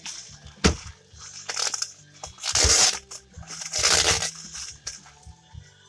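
Packing material being handled and pulled apart as a parcel is unwrapped: crinkling and rustling, with a sharp click about half a second in and two louder scrunching bursts around the middle.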